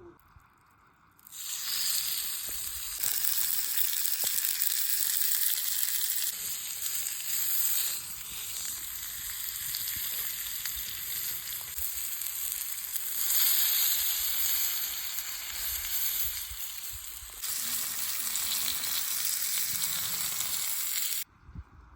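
Lard-wrapped veal fillet sizzling hard on a hot cast iron pan. The sizzle starts about a second in, jumps in level at several cuts, and stops abruptly near the end.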